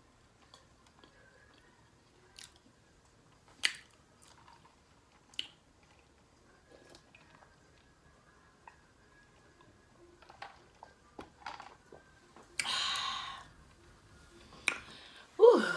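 Close-up chewing and mouth sounds of a person eating, with scattered short clicks and smacks and a louder one-second rush of sound about two-thirds through, ending in a breathy "whew".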